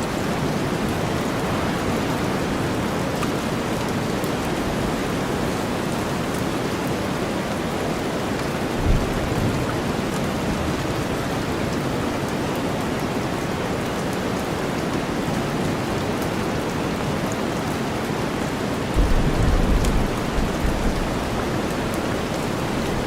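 Steady rain mixed with deep white noise, with a short low rumble of thunder about nine seconds in and a longer one near the end.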